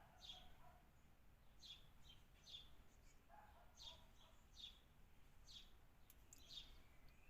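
Birds calling faintly: a string of short, high, downward-sweeping chirps, about one to two a second, with a couple of lower calls mixed in.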